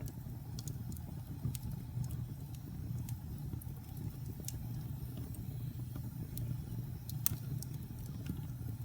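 Wood fire burning in a fireplace: a steady low rumble of flames with scattered sharp crackles and pops, the sharpest about seven seconds in.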